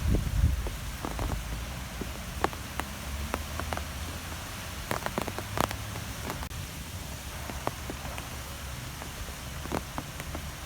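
Steady low wind rumble with an even hiss, broken by scattered sharp ticks, several close together about five seconds in.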